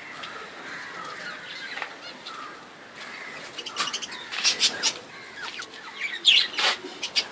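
A flock of caged budgerigars chattering and chirping, with louder bursts of sharp calls about four seconds in and again near the end.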